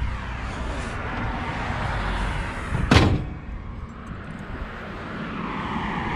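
A car hood, a 1969 Plymouth Road Runner's, slammed shut and latching once about three seconds in, over a steady rushing background noise.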